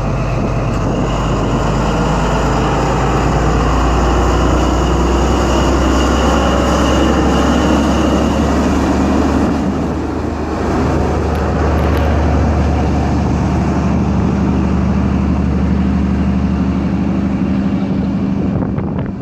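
Class 43 HST diesel power car pulling out of the station under power, a continuous engine drone with wheel and rail noise. The engine note changes about two-thirds of the way through, settling into a steadier hum.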